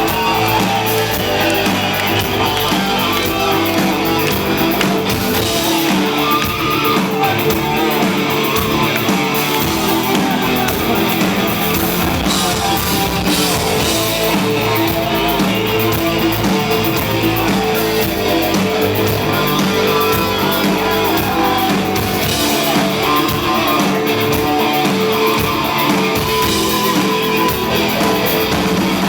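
Rock band playing live, with electric guitar and a drum kit.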